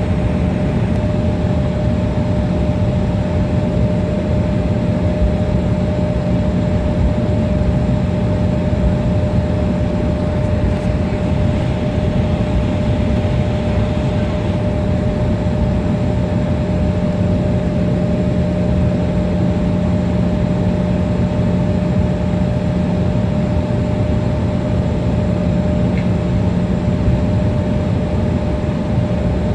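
Steady cabin noise of a regional jet airliner taxiing after landing, with its engines at idle: an even rushing noise with a low hum and a steady higher tone running through it.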